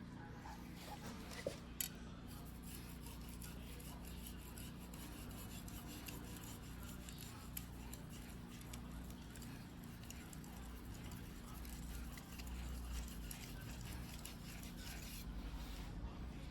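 Steel knife blade being worked by hand on a wet whetstone: a steady gritty scraping, with two sharp clicks about a second and a half in.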